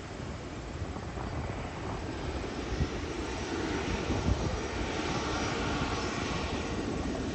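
Jet airliner passing low overhead on approach to land, its engine rumble growing gradually louder.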